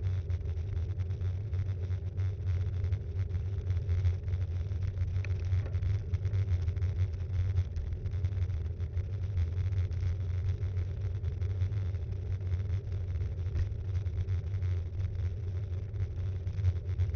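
Steady low rumble with frequent small rattles and knocks from a Btwin Rockrider 5.1 mountain bike being ridden, picked up through an action camera mounted on the bike.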